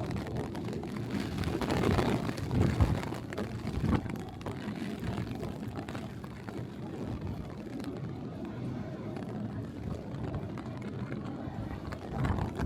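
Typhoon wind and rain on a city street: a steady rushing noise that swells for a couple of seconds near the start.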